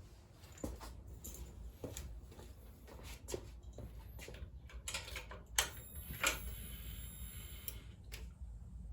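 Quiet scattered light clicks and knocks, like keys and small parts being handled, with a faint high steady whine lasting about two seconds just past the middle.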